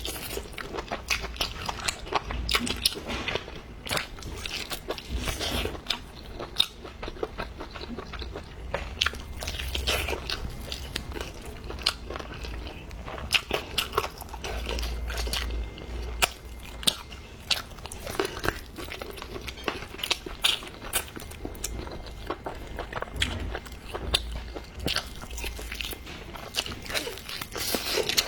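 A person chewing and biting food close to the microphone, with frequent irregular crunches and wet mouth clicks.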